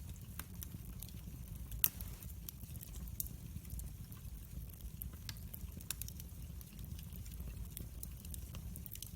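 Wood fire burning, crackling with frequent irregular pops over a steady low rumble of the flames, with one sharper pop about two seconds in.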